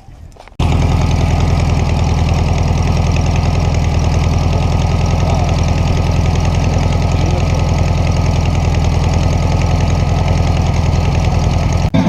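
Air-cooled Volkswagen flat-four engine idling loudly and steadily. It cuts in abruptly about half a second in and cuts off just before the end.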